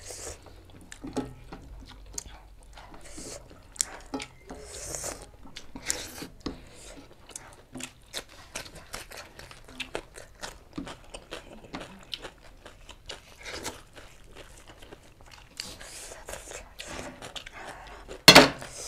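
Close-miked eating: chewing and lip-smacking with many short wet clicks. One much louder sharp sound near the end.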